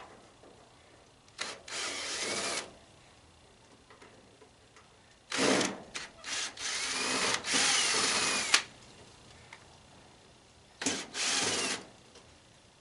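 Power drill running in three bursts, backing screws out of a tanning bed's frame: a short run about a second in, a longer run of about three seconds in the middle that starts in a few quick stop-start pulses, and a short run near the end.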